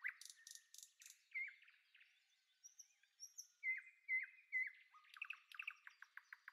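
Faint bird chirping: short, high, gliding notes, some repeated in groups of two or three, turning into a quick run of rapid repeated chirps near the end.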